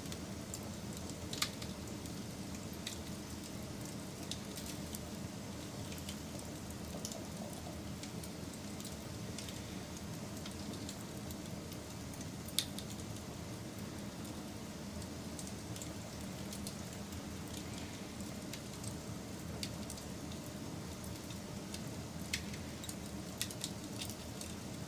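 Wood fire burning: a steady low rumble of flame with scattered sharp crackles and pops, the loudest about a second in and about halfway through, with a few more near the end.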